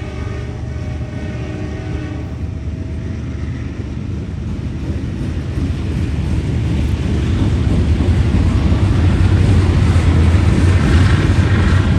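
Diesel locomotives of a freight train approaching, their low rumble growing steadily louder over several seconds and then staying loud. The tail of a train horn fades out in the first two seconds.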